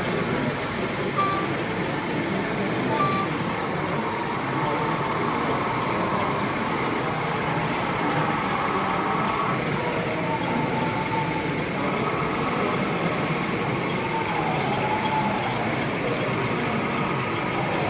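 Steady murmur of a busy exhibition hall: many visitors' voices mixed with the running noise of model trains on the layouts.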